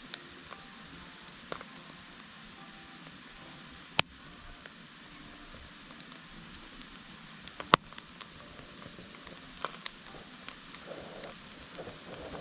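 Wood campfire burning with a steady hiss and scattered crackles, with two loud sharp pops of burning wood, one about four seconds in and a louder one near eight seconds.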